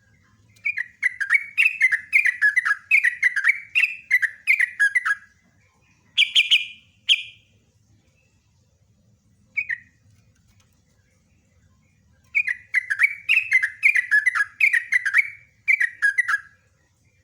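Yellow-vented bulbul (trucukan) singing: two long runs of quick, falling chirps, with a few short separate calls in between.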